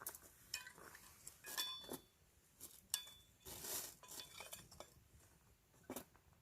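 Camping dishes and utensils being handled: a scatter of light metallic clinks with short ringing tones, and a brief rustle a little after three and a half seconds.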